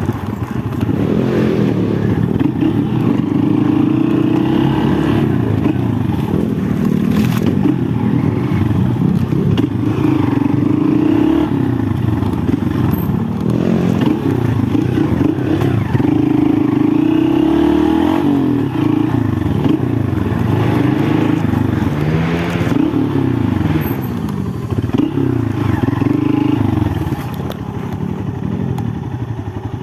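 Honda XR 190 enduro motorcycle's single-cylinder four-stroke engine revving up and down over and over, easing off somewhat near the end.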